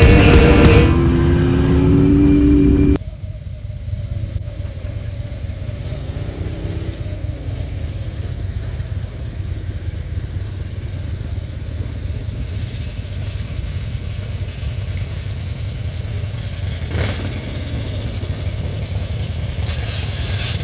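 Rock music cuts off about three seconds in, followed by the steady low rumble of motorcycle engines running, with a single brief knock near the end.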